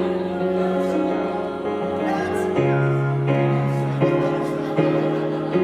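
Live piano accompaniment playing sustained chords that change about once a second.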